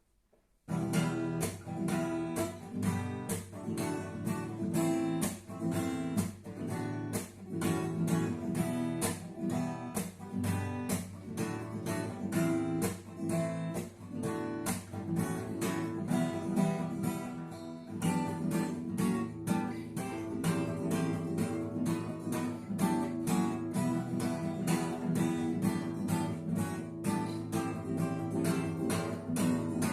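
Acoustic guitar strummed in a steady, driving rhythm of chords, starting about half a second in.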